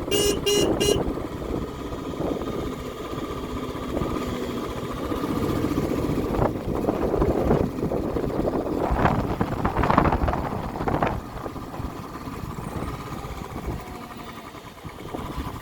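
A vehicle running along a rough mountain track, its engine and road noise steady, with louder rushing surges partway through. Three short beeps sound right at the start.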